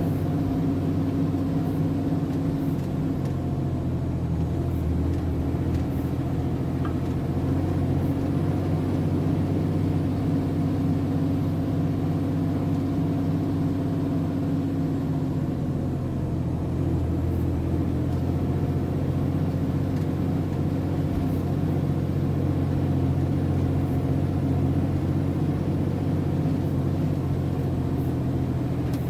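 Diesel engine of a MAN TGS 33.480 truck running steadily under way, its engine note shifting about halfway through.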